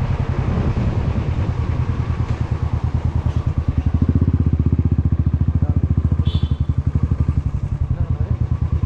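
Motorcycle engine running under way with a steady, rapid thumping pulse. A brief high chirp sounds about six seconds in.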